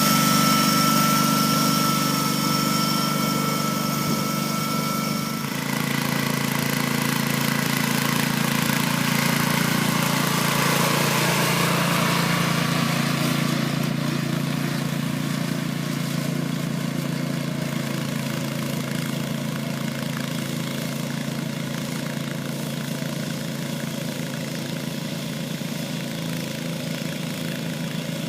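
Garden tractor engine running steadily while pulling a plow, with a high whine over it for the first five seconds or so that then stops.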